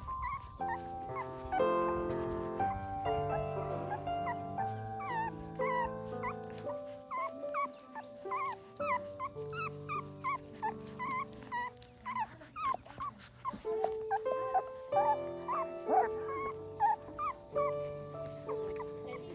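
Young puppies whimpering and squeaking in many short, high cries over background music of steady held chords.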